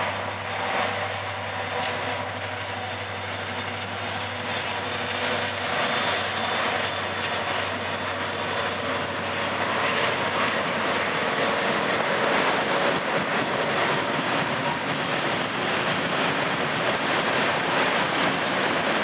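Freight train passing: a steady low diesel locomotive engine drone for the first five or six seconds, then the rolling rumble and clatter of freight cars on the rails.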